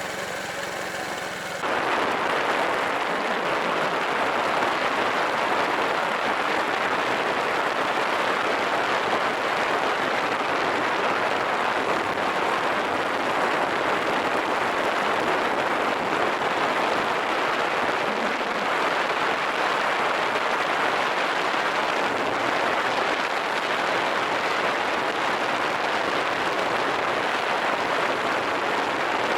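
Steady rushing wind and road noise from a moving motorcycle, starting abruptly about two seconds in and holding even, with no distinct engine note.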